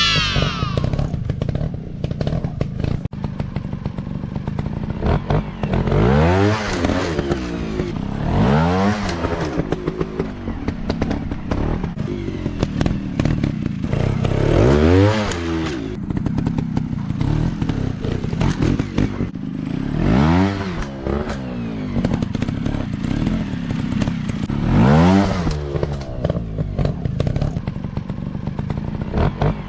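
Dirt bike engines running, with the revs climbing and dropping back about every few seconds, roughly six times, and rattling clatter in between.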